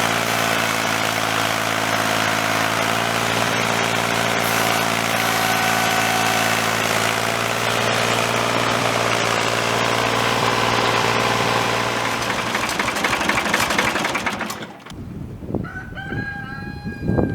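Tractor engine running steadily at a constant speed, then shutting off about fifteen seconds in. Right after it stops, a rooster crows near the end.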